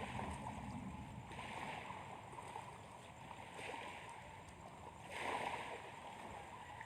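Faint water washing at a lakeshore, swelling and easing every couple of seconds as small waves come in.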